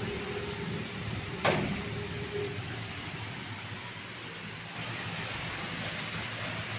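Steady rain with wind, with a single sharp knock about a second and a half in.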